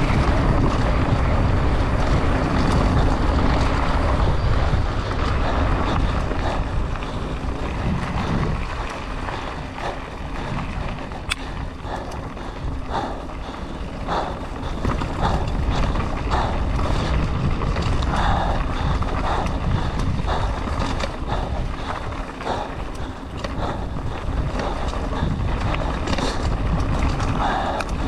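Mountain bike descending a dirt trail at race speed. Wind buffets the microphone, and the tyres and frame rattle over rough ground. The wind rush is heaviest for the first several seconds, then eases, leaving many short knocks and clatters from the bike.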